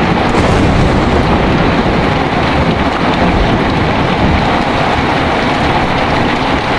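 Heavy rain falling steadily with strong wind, over a low continuous rumble of thunder.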